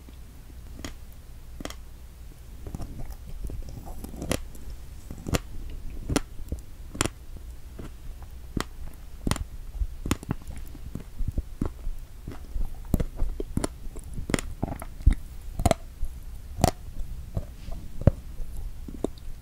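Close-miked chewing of a strawberry with whipped cream: soft, wet mouth sounds with many sharp, irregular clicks and smacks.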